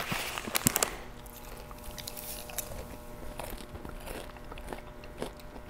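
Mouths chewing and crunching OREO popcorn, with a plastic snack bag crinkling in the first second.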